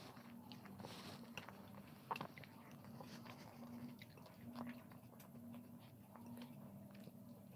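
A person eating close to the microphone: soft chewing and biting with scattered short clicks, over a faint low hum.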